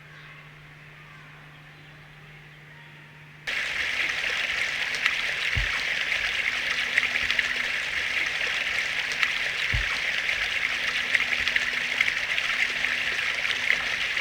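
Stream water running, a steady rush that cuts in abruptly a few seconds in. Before it there is only a faint low hum.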